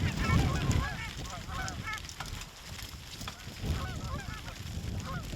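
Many geese honking in overlapping, short calls, as from a flock. Wind rumbles on the microphone during the first second and again around four seconds in.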